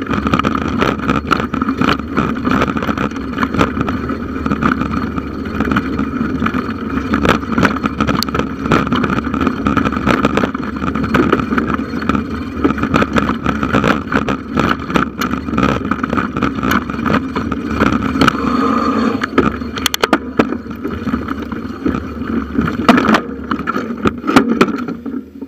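Bicycle riding along a forest trail, picked up by a handlebar-mounted camera: a steady rumble of tyres and wind with constant rattling clicks from the bike and mount. It drops away sharply near the end.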